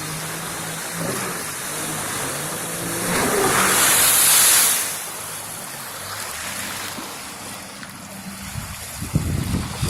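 Jet ski engine running, a steady hum that wavers in pitch, with a loud hissing rush about three seconds in lasting under two seconds. Wind buffets the microphone near the end.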